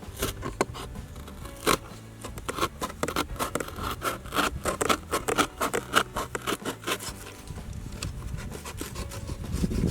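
Irregular scraping, rubbing and clicking, in quick runs that thin out after about seven seconds.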